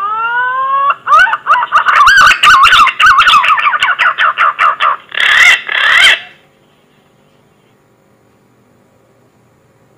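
Green pigeon (punai) whistling call, used as a hunting lure: a long rising whistle, then a run of quick wavering whistled notes with some clicks among them, ending in two louder notes. The call stops a little past the middle.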